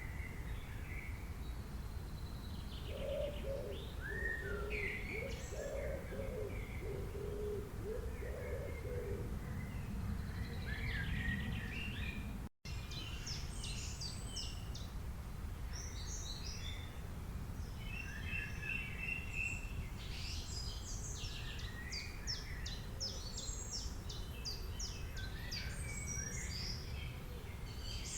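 Rainforest ambience: many birds chirping and trilling, with a run of low calls in the first ten seconds, over a steady low background noise. The sound cuts out briefly to silence about halfway through.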